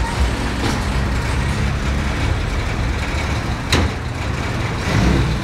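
Chevrolet Opala engine idling with a steady low rumble. One sharp click comes a little before four seconds in.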